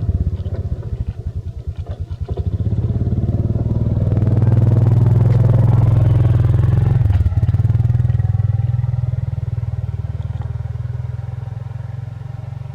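Motorcycle engine starting abruptly and running with a pulsing beat, then revving up about two seconds in and holding a steady, higher speed. There is a brief dip about seven seconds in, after which it runs on and slowly fades.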